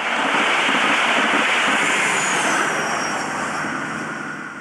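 Roar of a train passing the lineside and fading away, with a faint high whine that falls in pitch about two seconds in.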